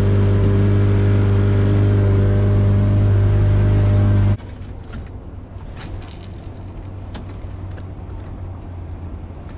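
Boat motor running steadily, then stopping abruptly about four seconds in, leaving a quieter hiss with a few faint knocks.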